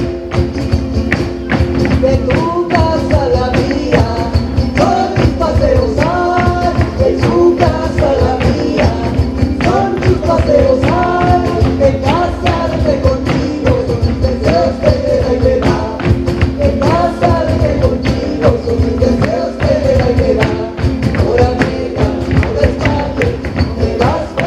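Live band playing upbeat Latin music: a dense, steady percussion beat under sustained low notes and a melodic line that slides up and down.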